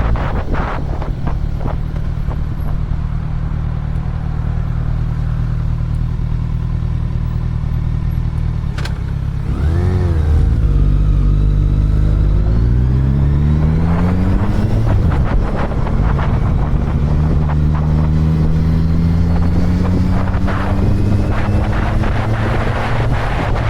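Motorcycle engine running under way with wind buffeting the microphone. About ten seconds in it gets louder and the engine note climbs, drops back and climbs again as the bike accelerates through a gear change.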